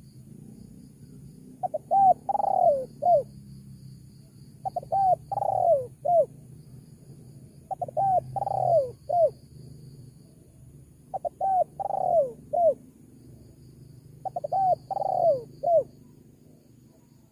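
Spotted dove (tekukur) cooing, played as a lure call for wild doves: five repeated phrases about three seconds apart. Each phrase is two short coos, a longer falling coo and a short final one, over a low hum and faint insect chirring.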